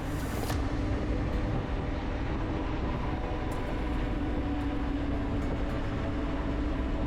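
Motorcycle engine running at a steady cruising speed: an even hum with a low rumble beneath, holding the same pitch throughout.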